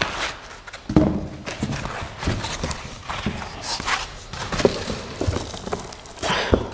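Parts and packaging being handled while a machine is unpacked from its box: irregular knocks and thumps with short bursts of rustling packaging.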